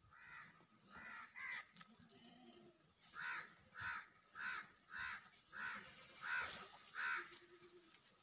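A bird calling: a few calls in the first two seconds, then a run of about seven evenly spaced calls, a little under two a second, from about three seconds in until about seven seconds in.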